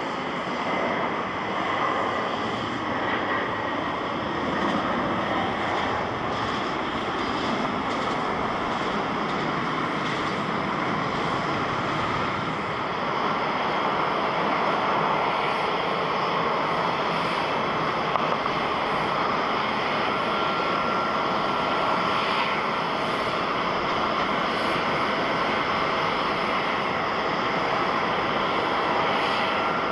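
Jet airliner engines running with a steady, even noise, joined by a thin steady whine in the later part.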